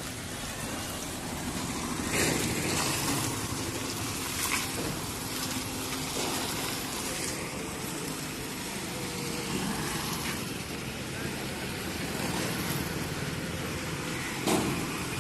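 Car engines running steadily during car-carrier unloading, with a few sharp knocks and clanks, about two seconds in, at four and a half seconds, and near the end.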